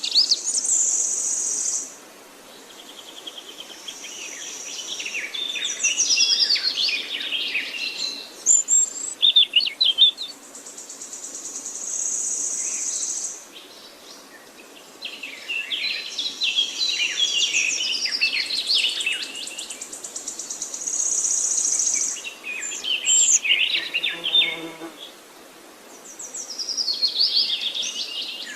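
Songbirds singing in woodland: varied song phrases, some high rapid trills and some warbling runs of notes, each a second or two long with short pauses between.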